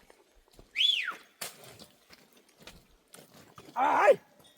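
Goats bleating: two short calls that fall in pitch, the second lower and louder near the end, with a sharp click between them.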